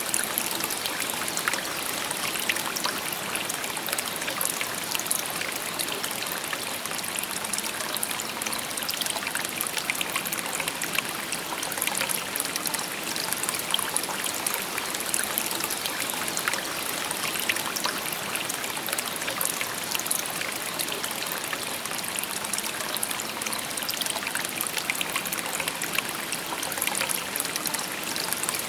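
Shallow river babbling over stones: a steady, even rush of water with fine splashing and trickling.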